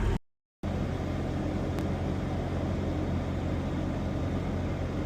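Cat D6T bulldozer's diesel engine running steadily, a low even drone with hiss above it. The sound cuts out completely for about half a second just after the start, then resumes unchanged.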